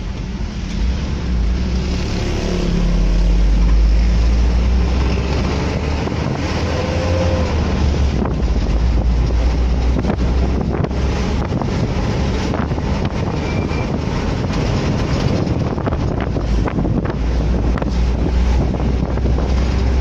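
Wind buffeting the microphone over a steady low engine and road rumble from a moving vehicle.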